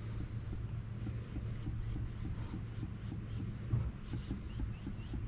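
Engine oil glugging from a quart bottle into the oil fill tube of a Piper 140's engine, a faint regular throbbing over a steady low hum.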